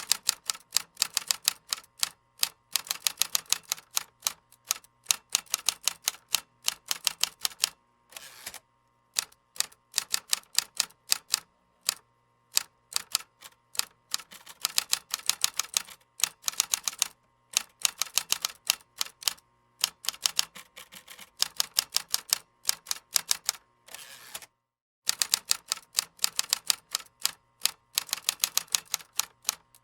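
Computer keyboard typing: quick runs of crisp key clicks, broken by short pauses every few seconds.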